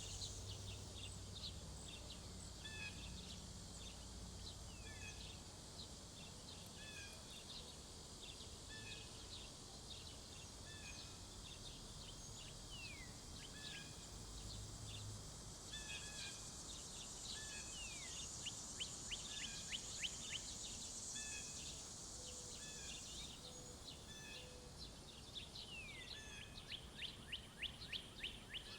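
Songbirds calling: one bird repeats a short chirp about every second and a half, and rapid trilling song bursts come about two-thirds of the way in and again near the end, over a steady high drone of summer insects.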